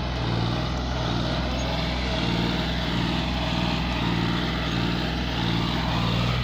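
John Deere 5050D tractor's diesel engine running steadily under load, the tractor stuck while pulling.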